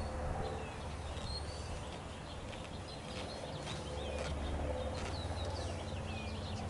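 Small birds chirping repeatedly in short, quick calls over a steady low rumble.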